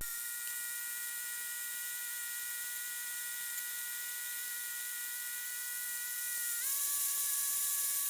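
Steady electrical whine and hiss on the cockpit audio feed: a few high steady tones over a hiss, stepping up slightly in pitch about two-thirds of the way through.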